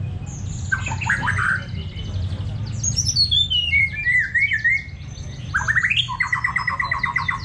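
Songbirds singing: a stream of sharp, rapid chirps, with a run of notes falling in pitch midway, then a rising sweep and a fast, even trill near the end.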